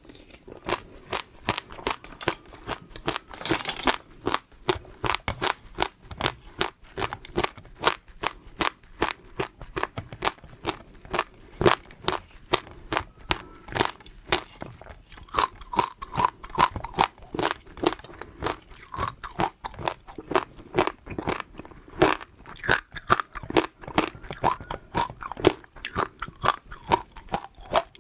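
Close-miked eating: a person chewing and crunching food, with sharp crunches coming about two to three a second.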